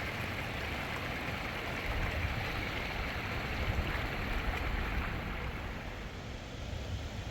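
Steady rushing noise with a low rumble underneath, a little louder from about two seconds in.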